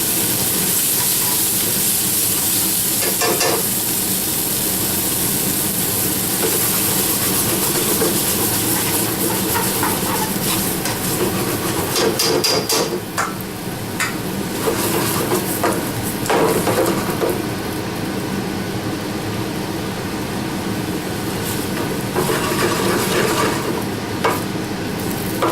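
Pasta being stirred in a hot pan of butter, garlic and tomato sauce: a steady sizzle, with scrapes and clinks of the utensil against the pan now and then.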